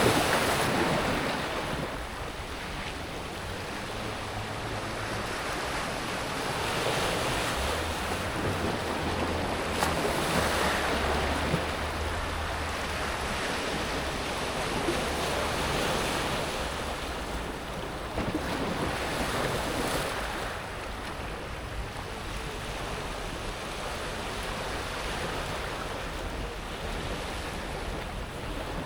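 Small waves breaking and washing over a pebble beach, swelling and ebbing every few seconds as the water rolls up and draws back over the smooth stones.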